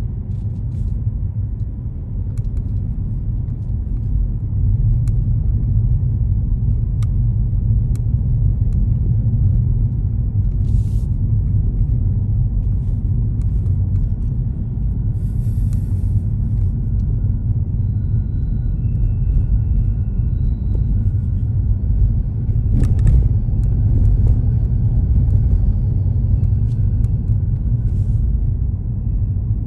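Steady low rumble of a car being driven, with a few faint clicks.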